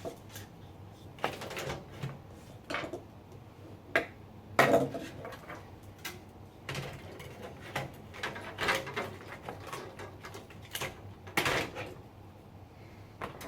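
Irregular knocks, clicks and rattles of hard parts being handled, with the loudest clatter about four and a half seconds in.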